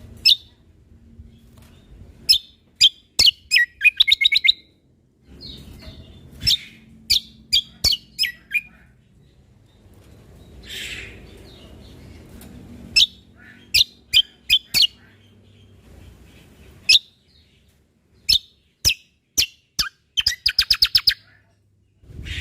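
Cucak kombo (kecial kombok) songbird calling in sharp, short, high-pitched notes, some single and some in quick runs. A rapid trill of repeated notes comes about four seconds in and again near the end.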